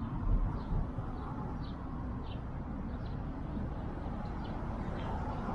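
Steady low rumble of city traffic, with faint short bird chirps repeating every half second or so.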